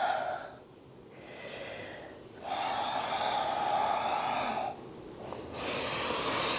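A woman breathing deeply and audibly close to the microphone: a few slow, long breaths, each about one to two seconds, with short pauses between them.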